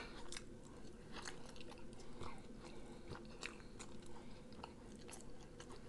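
A person chewing and biting rotisserie chicken close to the microphone: faint, irregular mouth clicks and smacks, several a second.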